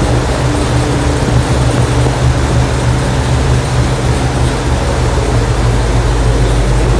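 Ford 460 big-block V8 with Edelbrock Pro-Flow 4 fuel injection running steadily on an engine dyno at a constant speed between pulls, with no revving.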